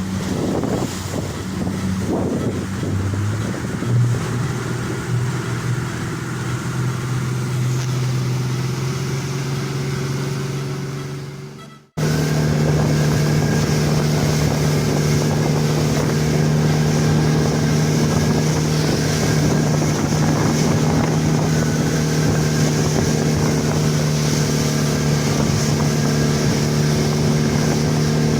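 Speedboat engine running under way, a steady hum with wind and water rushing past; its pitch rises a few seconds in. About twelve seconds in the sound drops out abruptly and comes straight back, steadier and slightly higher.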